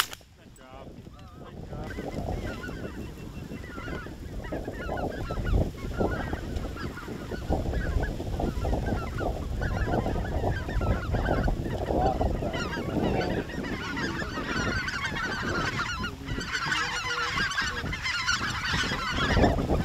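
A flock of wild geese honking and calling, many voices overlapping, the calling thickest near the end, over a low rumble of wind on the microphone.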